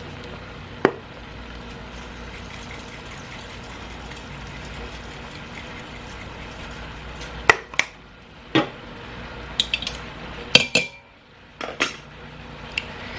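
Metal utensil clanking and clicking against the electric pressure cooker's inner pot: single knocks, then several in quick succession in the second half, over a steady hiss that drops away briefly near the end.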